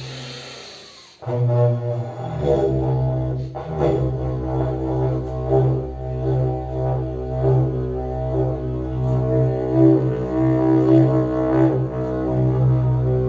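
Homemade PVC pipe didgeridoo played as a steady low drone, its overtones shifting as the player's mouth and tongue shape change. A breathy hiss fills the first second before the drone starts.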